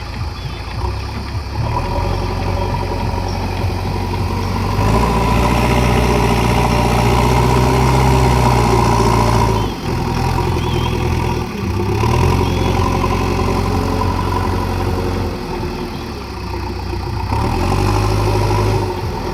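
JCB 3DX backhoe loader's diesel engine running, with its revs rising and falling in stretches as it works: it speeds up and gets louder about five seconds in, dips briefly twice, and picks up again near the end.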